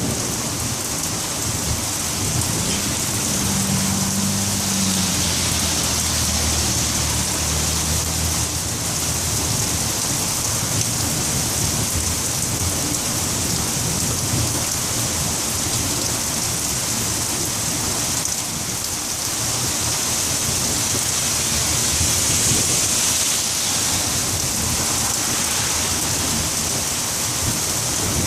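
Heavy rain falling steadily in a thunderstorm, an even hiss throughout, with a low roll of thunder rumbling for several seconds a few seconds in.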